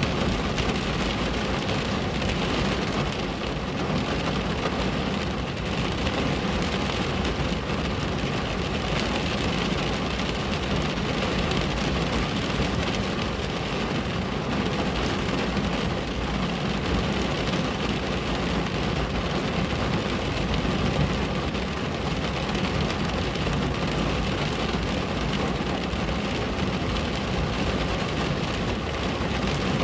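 Steady rain falling on a window pane, an even wash of patter without breaks.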